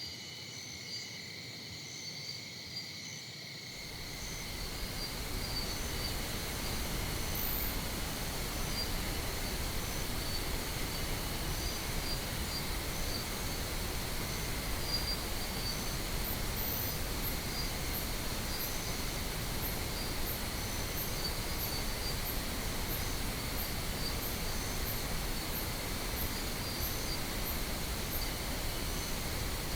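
Steady pink noise fades in about four seconds in and then holds even, laid over a chorus of chirping insects such as crickets. A run of faint, high, evenly spaced ticks comes in the second half.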